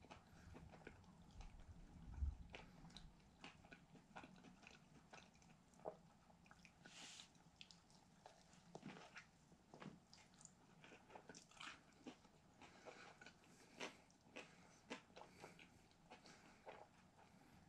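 Faint close-up chewing and biting of a Popeyes spicy chicken sandwich: scattered small wet mouth clicks and crunches of the fried breading, with a low thump about two seconds in.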